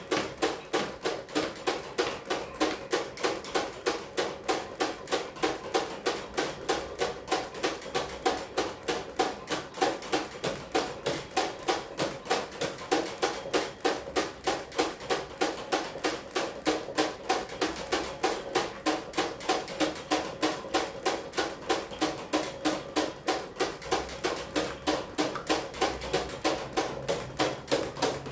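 Electric fan running with a steady rhythmic knocking, about three to four knocks a second, over a hum.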